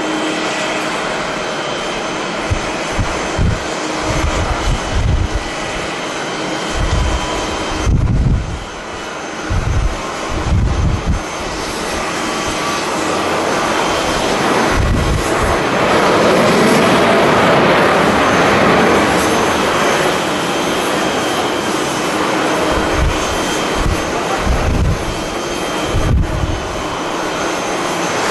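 Jet airliner engines, a dense roar that swells to its loudest midway and then eases off, with a few faint steady whining tones underneath. Wind buffets the microphone in gusts, mostly in the first half and again near the end.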